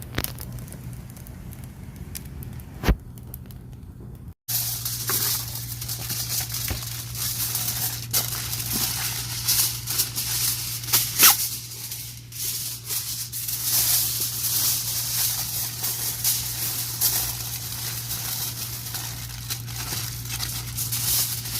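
Wood campfire burning with pine cones as kindling, crackling and popping in sharp irregular snaps over a steady low hum. About four seconds in, the sound briefly drops out, then returns louder and denser.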